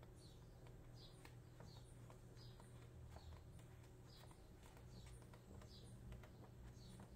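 Near silence with a bird's faint, high chirps repeating a little more than once a second over a low room hum.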